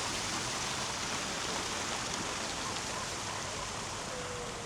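Steady rushing noise of splashing water, with a few faint short tones above it.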